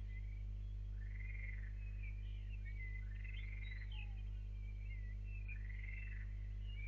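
A songbird singing short warbled phrases over and over, one every second or so. A steady low hum runs underneath.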